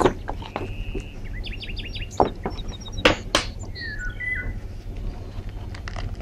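Small birds chirping in short, high calls and a few sliding notes. There are a few sharp knocks around the middle, over a steady low rumble.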